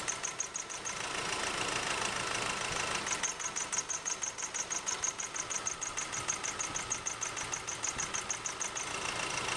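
2.5-litre common-rail turbo diesel of a 2008 Nissan Navara D40 idling roughly with an even, rhythmic beat, its number 3 cylinder shut off by a scan-tool power balance test. The beat drops out about a second in and returns about three seconds in.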